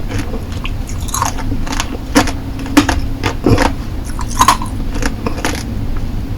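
Hard lollipop candy being bitten and chewed with the mouth close to the microphone: a run of irregular sharp crunches that stops near the end, over a steady low background hum.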